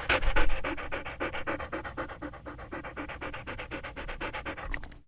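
A dog panting fast and evenly, about seven or eight breaths a second, louder at first and easing off a little; the clip cuts off abruptly near the end.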